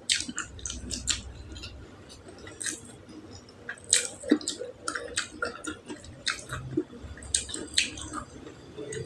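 Close-up wet chewing and lip smacking of tender beef tongue, a string of short, sharp, irregular smacks and clicks.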